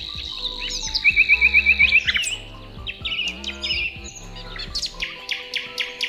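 Several small songbirds chirping and whistling, with a rapid run of about eight loud notes around a second in, over soft background music.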